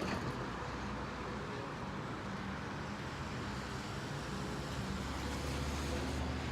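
Steady traffic noise with the low hum of idling vehicle engines.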